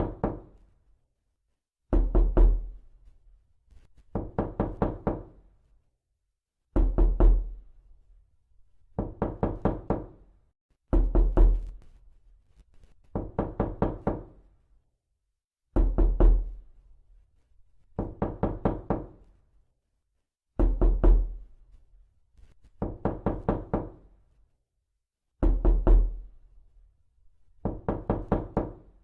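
Knocking in repeated bursts. Each burst is a quick run of about four to six knocks lasting about a second, and a new burst comes roughly every two seconds.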